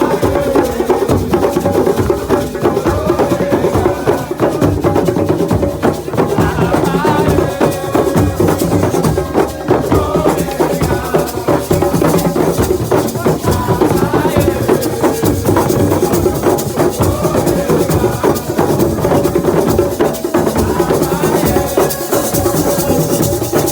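Live assiko music: hand-played percussion, including the square frame drum (caisse carrée), keeps a dense, steady rhythm with shaker-like rattling, under group singing.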